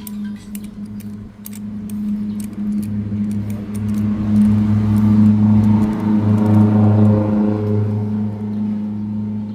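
Suzuki Satria FU's 150 cc single-cylinder four-stroke engine running steadily, growing louder a few seconds in.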